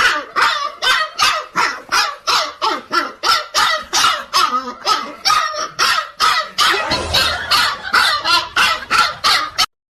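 A dog barking over and over without pause, about three short barks a second, cutting off abruptly near the end.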